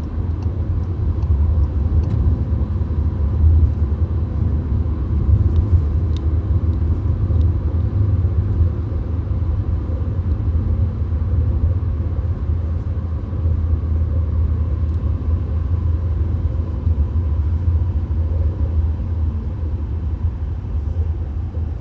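Road noise of a VW Golf cruising on a motorway, heard inside the cabin: a steady low rumble of tyres and engine that holds even throughout.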